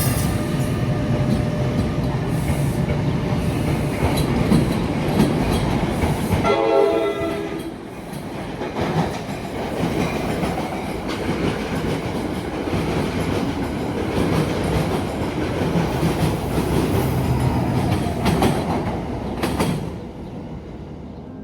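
NJ Transit commuter train passing close by, its wheels rumbling and clattering on the rails, with a short horn blast about a third of the way in. The train sound falls away near the end.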